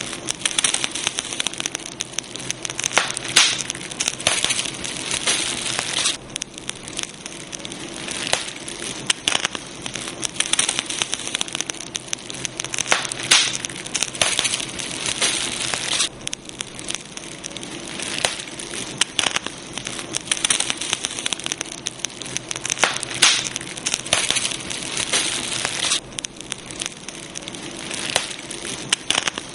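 Campfire crackling and popping steadily, a dense run of sharp snaps over a soft hiss of burning wood, thinning briefly about every ten seconds.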